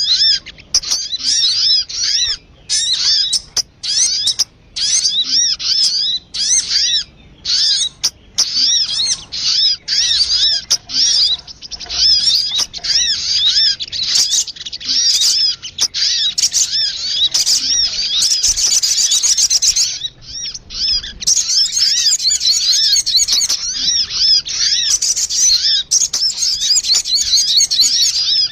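Sogun bird lure recording: rapid, high-pitched chattering calls in dense bursts broken by short pauses, played to draw wild birds in.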